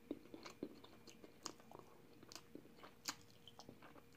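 Faint chewing of fried chicken: irregular soft crunches and mouth clicks over a faint steady hum.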